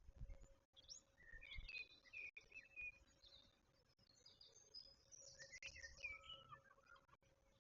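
Faint birdsong: short chirping and warbling phrases from small birds, over a steady low hum.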